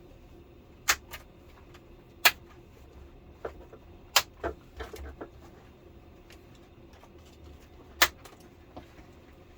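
Scattered sharp clicks and knocks, about half a dozen, from plastic and metal parts of a stripped-down LCD television being handled and moved, the loudest about two seconds in.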